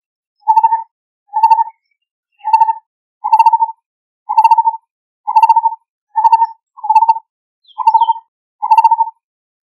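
Lineated barbet calling: a steady series of short, hollow, rapidly pulsed notes, about one a second.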